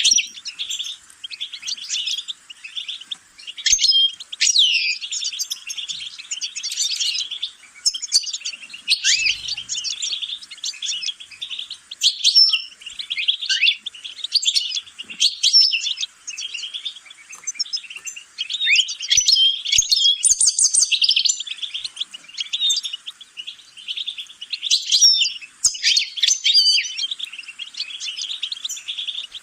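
Songbird singing a long, fast, twittering song of quick trills and short rising and falling whistled notes, with only brief pauses.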